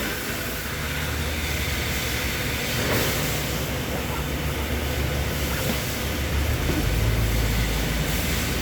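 Steady low mechanical hum under an even hiss, with a faint knock about three seconds in; the hum grows stronger near the end.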